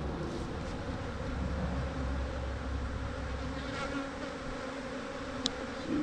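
A dense cloud of agitated honeybees buzzing steadily around an opened, highly defensive hive, with a low rumble for about the first four seconds and a brief high squeak near the end.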